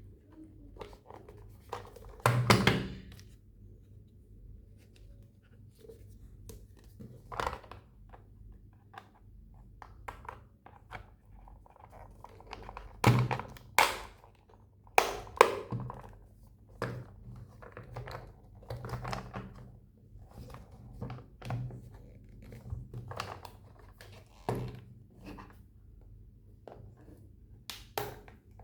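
Hands handling a plastic toy and its packaging: scattered knocks, taps and clicks of uneven loudness, the loudest about two seconds in and a cluster of sharp knocks around the middle.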